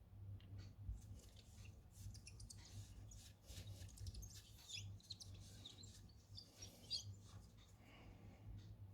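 Faint scraping, clicking and short squeaks of small repair tools working on a smartphone's cracked front glass, over a steady low hum.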